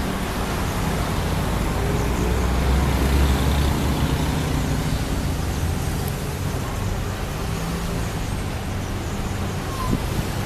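A large engine running steadily among traffic noise, with a deep low hum that swells a couple of seconds in.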